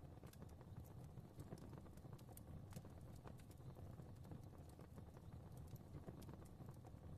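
Fireplace fire crackling softly: irregular small pops and snaps, several a second, over a low steady rumble.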